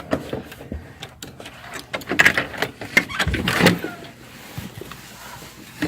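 Clicks, knocks and rustling as a heavy hotel room door is pushed open and bags are handled, busiest in the middle.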